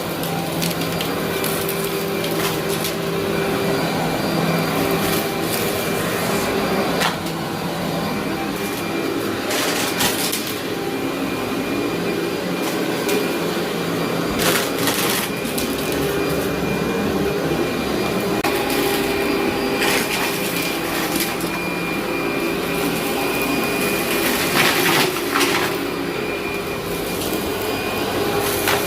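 Bagless vacuum cleaner running steadily over a heavily soiled carpet, with a constant crunchy crackle of grit and debris being sucked up, and louder crackles every few seconds.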